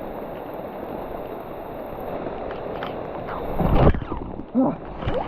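Rain falling steadily as an even hiss, with a louder low rush of wind or handling noise about four seconds in.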